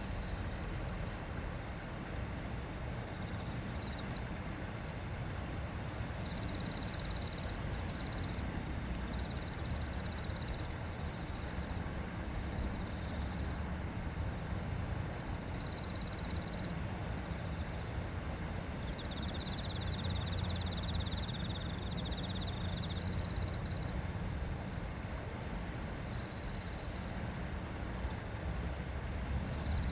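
River water babbling steadily, with a strong low rumble underneath. Short high-pitched trills, each about a second long, recur every second or two from a few seconds in.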